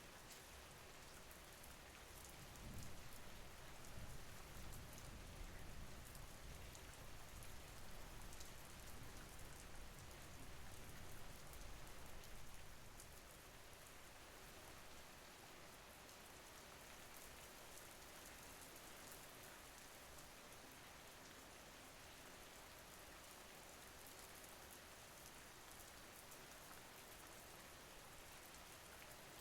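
Steady rain: a soft, even hiss with the fine patter of individual drops. A low rumble joins about three seconds in and fades out around twelve seconds.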